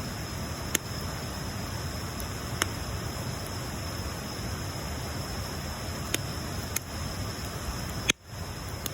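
Wood bonfire burning with a steady hiss and a few sharp crackles scattered through, about five in all. The sound briefly drops away just after a loud crackle near the end.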